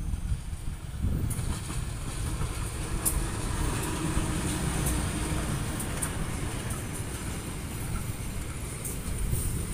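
Diesel locomotive hauling a passenger train past at close range as it pulls in to a station stop: a low rumble, with the engine hum strongest as the locomotive goes by about four seconds in, then the coaches rolling past with a few sharp wheel clicks.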